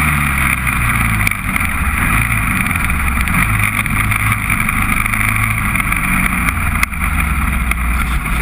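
Honda TRX400EX quad's single-cylinder four-stroke engine running steadily.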